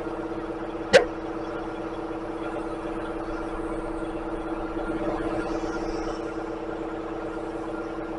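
Steady hum of a shop machine's electric motor, with a single sharp click about a second in.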